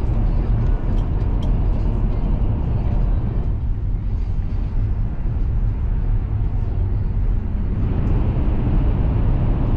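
Cabin noise inside a Chinese high-speed bullet train running at speed: a steady low rumble, with a few faint clicks about a second in.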